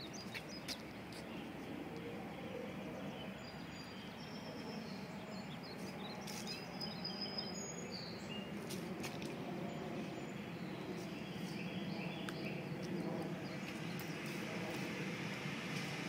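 Outdoor ambience: a steady background rumble that swells gradually near the end, with birds chirping now and then over it.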